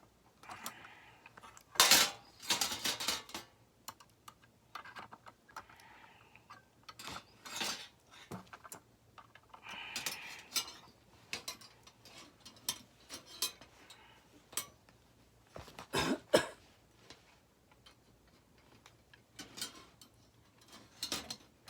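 Metal parts of a folding fire pit clinking and clattering as they are handled and fitted together, in scattered knocks with the loudest clanks about 2 seconds in and about 16 seconds in.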